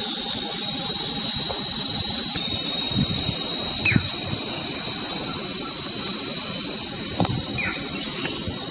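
A steady high-pitched whine held on one note over a hiss, with a few short knocks about three, four and seven seconds in.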